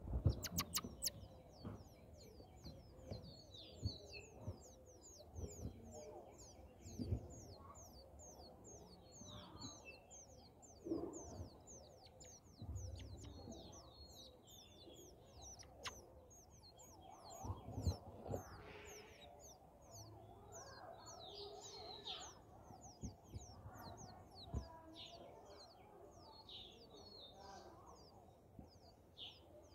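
Small birds chirping in a rapid, steady run of short, high, thin notes, several a second, with a few sharp clicks near the start and soft rustling and bumps of birds moving in a grass nest.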